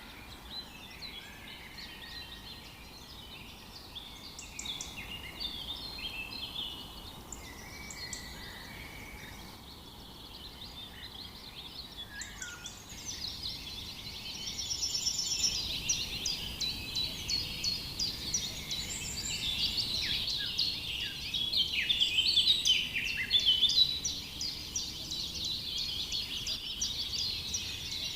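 Several small birds chirping and singing over one another in short, rapid notes. The calls are sparse at first, then grow denser and louder from about halfway on.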